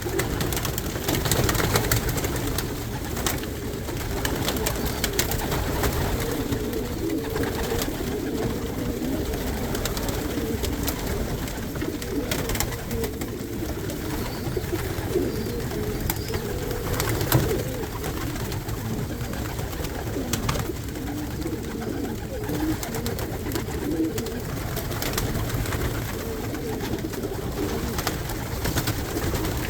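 A loft full of pigeons cooing continuously, many birds overlapping in a low, wavering murmur, with scattered sharp knocks and clicks.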